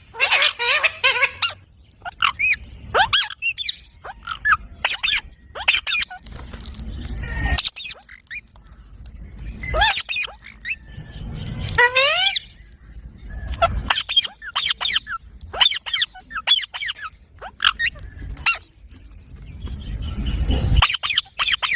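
A parrot calling and chattering: a rapid series of short, sharp squeaks and squawks, with several rising and falling pitch glides.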